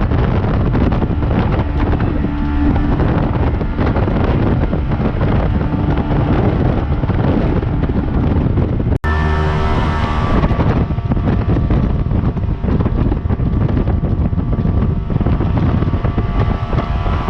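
Jet boat running under way, its engine and jet drive a steady loud drone mixed with heavy wind buffeting on the microphone. The sound drops out for an instant about halfway through, then carries on.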